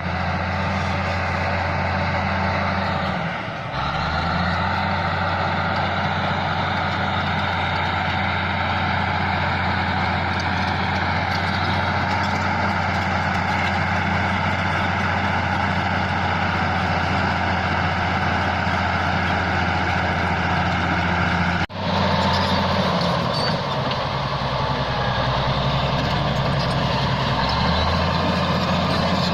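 Bulldozer's diesel engine running steadily under load. The engine note sags briefly about three and a half seconds in. A sudden break comes about two-thirds of the way through, after which the note settles lower.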